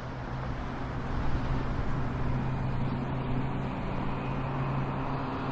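Car on the move: a steady low engine hum over road noise.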